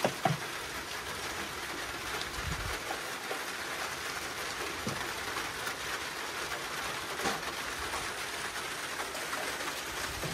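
Steady rain falling, with a sharp knock right at the start and a few faint thumps later on.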